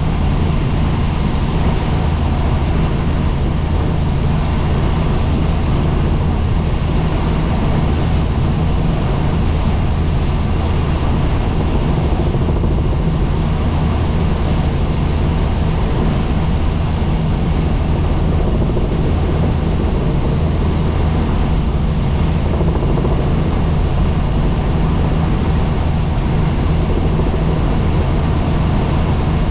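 Helicopter in steady flight: rotor and engine running evenly, the sound loud and constant and heaviest in the low range.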